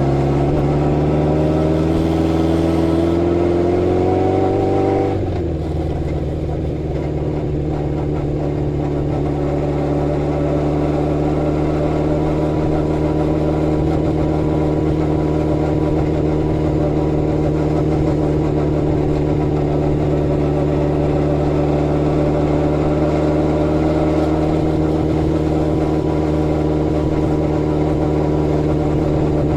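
Honda CB750 Four's air-cooled inline-four engine under way: its note climbs steadily for about five seconds, drops sharply, then settles into an even, steady drone for the rest.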